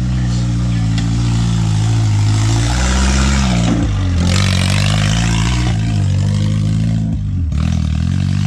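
Off-road buggy (gaiola) engine driving on a trail, its pitch rising and falling as the throttle is worked, with a sharp drop just after seven seconds before it revs up again.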